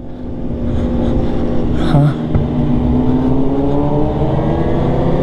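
Sportbike engine running steadily, its pitch rising slowly over the last couple of seconds.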